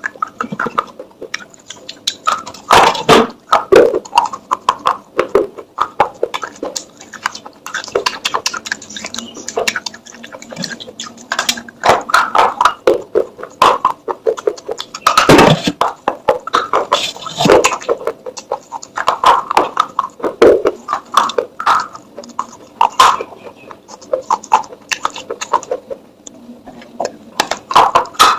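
Clay pot sounds: dense, irregular clicking and knocking of fired clay, with sharp ticks mixed with duller knocks throughout.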